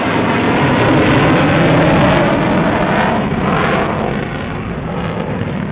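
B-1B Lancer bomber's four General Electric F101 turbofan engines in a loud low flyby: a heavy jet roar that peaks about two seconds in and fades away after about four seconds.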